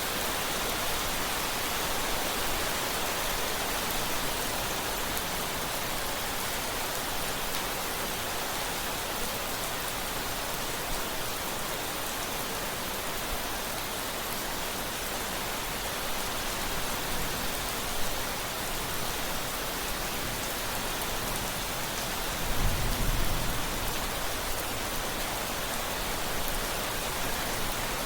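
Steady rain falling, an even hiss, with a brief low rumble of thunder about three quarters of the way through.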